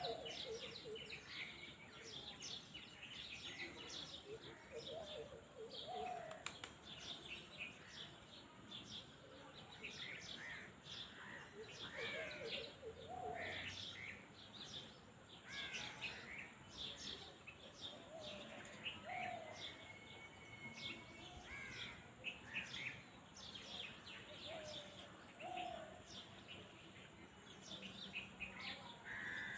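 Many small birds chirping and trilling, with lower calls from other birds every few seconds over faint outdoor background noise.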